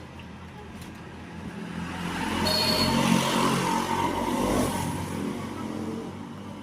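A road vehicle passing by, its engine and tyre noise swelling to a peak about three seconds in and then fading away.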